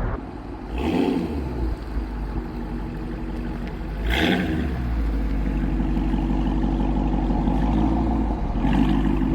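Muscle-car V8 engine idling with a deep rumble, revved briefly about a second in and again around four seconds in.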